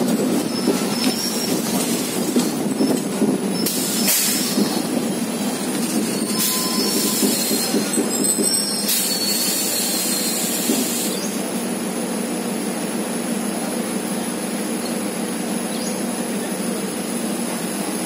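Passenger train coach running on rails, heard from on board: a steady rumble of wheels on track, with bursts of high wheel squeal on the curving track between about four and eleven seconds in.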